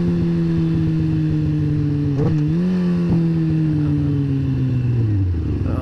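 Sport bike engine running under way, its revs easing down slowly, with a brief dip and pickup about two seconds in and a sharp fall in revs near the end.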